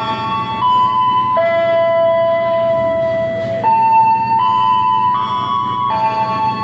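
Railway station PA system playing a slow electronic melody of long held notes, stepping from pitch to pitch, after an announcement. A steady low rumble runs underneath.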